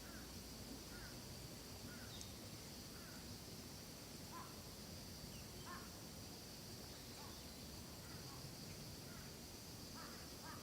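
Faint forest ambience: a bird calling repeatedly in short notes about once a second, over a steady high hiss.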